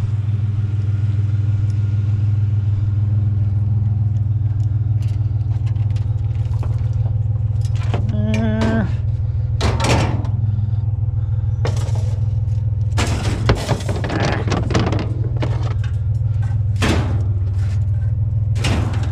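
A vehicle engine idling with a steady low hum, while pieces of scrap metal knock and rattle a few times as they are handled, most around the middle of the stretch.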